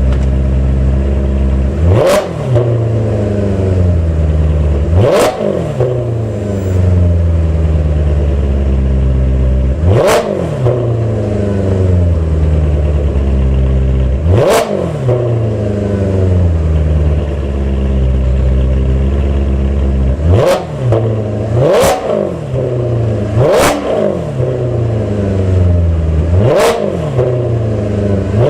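Maserati Quattroporte's 4.2 V8, warmed up and breathing through Larini catalytic converters and a Tubi exhaust, idling between short throttle blips. There are about eight blips, each rising sharply in pitch and falling back to idle, coming closer together in the second half.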